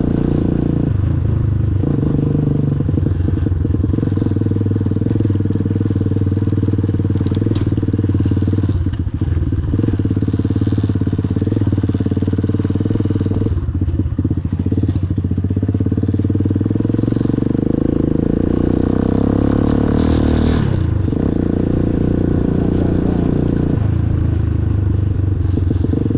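Motorcycle engine running steadily while riding, its note dipping briefly about four or five times.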